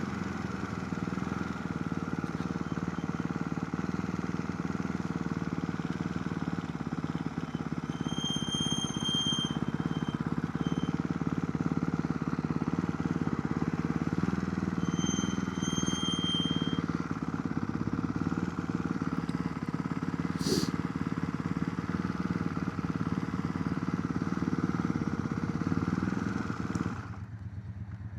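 Motorcycle engine idling steadily while pulled over. It cuts off near the end, as if switched off.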